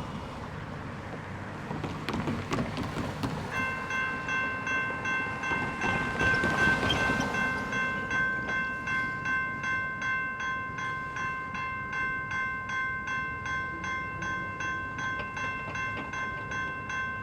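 Train passing, its wheels rumbling and clicking on the rails. A few seconds in, a railroad crossing bell starts ringing at about two strokes a second and goes on steadily.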